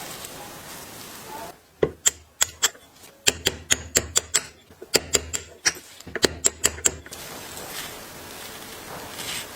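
A quick, irregular run of sharp clicks and taps, about four to six a second in three short clusters, starting about two seconds in and stopping about two seconds before the end.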